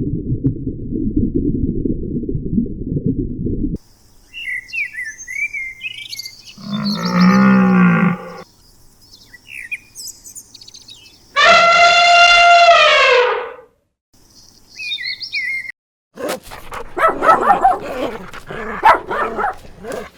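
A string of different animal calls cut one after another: a low rumbling sound for the first few seconds, then bird chirps, two loud drawn-out pitched calls, the second falling in pitch, and harsh, noisy calling near the end.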